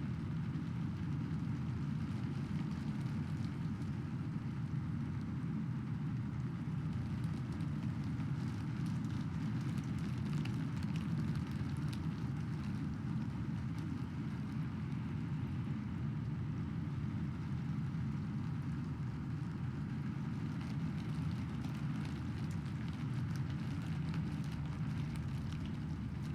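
Steady rain, an even wash of noise that is heaviest in the low range, with faint scattered drop ticks and no distinct thunderclap.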